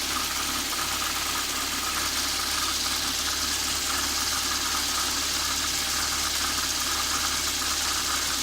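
Perodua Myvi engine idling steadily, with a continuous whirring hiss over the engine note: the sound of a water pump problem.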